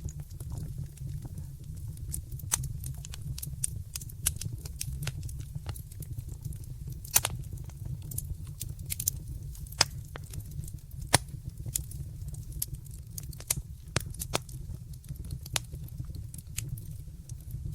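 Wood fire in a fireplace crackling, with irregular sharp pops over a steady low rumble. The loudest pops come about seven and eleven seconds in.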